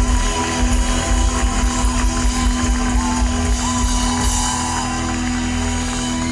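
Heavy metal band playing live near the end of a song: drums and a long held low note under a lead line that bends up and down in pitch. The drums thin out near the end.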